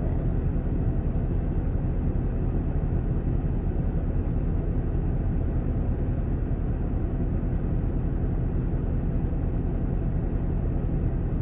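Steady low engine rumble of a semi truck's diesel running, unchanging throughout.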